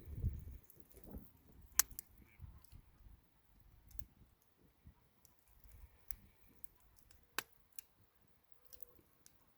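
Wood campfire crackling faintly, with a few sharp pops, the loudest about two seconds in and again past seven seconds, over soft low rumbles.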